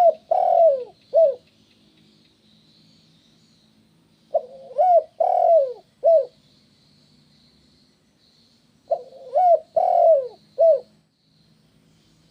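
Spotted dove (tekukur) cooing: a phrase of four low coos, repeated three times about every four and a half seconds. A faint steady high hiss runs underneath.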